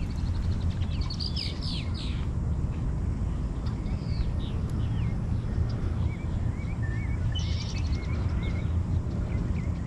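Several birds chirping and singing in quick, varied calls, busiest about a second in and again near the end, over a steady low rumble.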